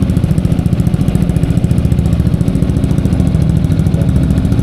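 Yamaha XMAX 250 scooter's single-cylinder engine idling loud and steady through an aftermarket ProSpeed exhaust, with fast, even exhaust pulses.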